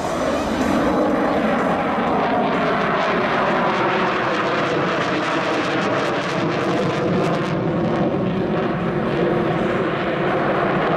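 MiG-29 fighter jet's twin turbofan engines as it flies overhead: a loud, steady jet noise with engine tones that drift slowly in pitch.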